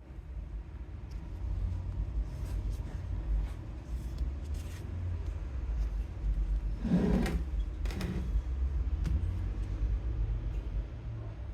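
Scattered clicks and knocks with a louder clunk about seven seconds in, over a steady low hum.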